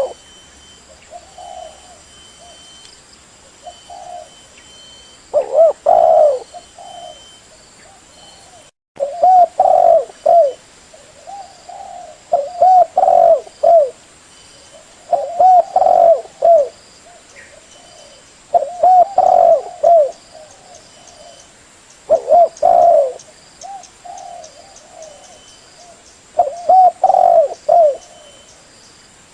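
Spotted dove (tekukur) cooing: loud phrases of several low, rolling coo notes repeated every three to four seconds, with softer coos in between, played as a lure call.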